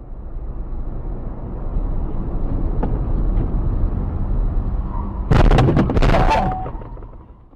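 Vehicle collision heard from inside a car: steady road and engine rumble, then a loud sudden crash about five seconds in and a second impact under a second later, then fading out.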